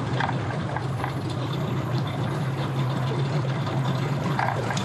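A boat engine running steadily, with churning, splashing water over it.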